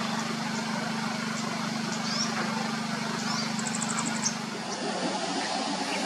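Small birds giving a few short, high, rising chirps and one quick, very high trill of about eight notes a little past the middle. These sit over a steady low hum that stops about five seconds in, and a constant hiss.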